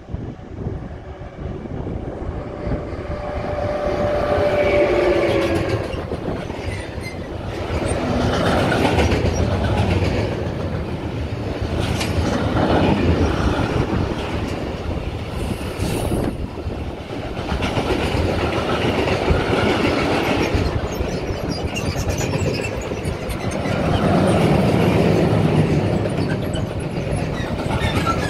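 Freight train of tank wagons and covered sliding-wall wagons rolling past close by, the wheels clattering over the rail joints. The sound builds as the train arrives and then swells and eases in waves as the wagons go by.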